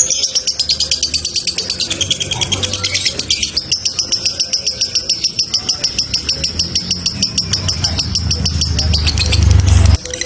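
Lovebird singing a long, fast, unbroken chatter of high chirps, about eight a second (the 'ngekek panjang' of a konslet lovebird). Under it a low rumble grows louder and cuts off suddenly just before the end.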